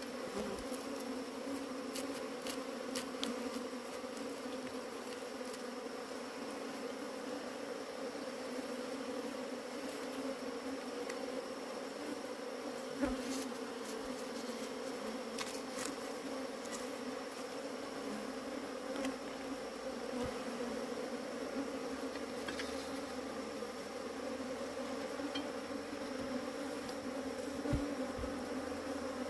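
Many bees buzzing in a steady, even hum, with a few light clicks.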